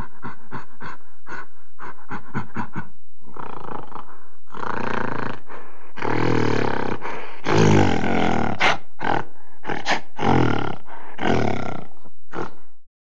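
Silverback gorilla calling: a rapid run of short grunts, about four a second, then a series of long, loud roars from about four seconds in.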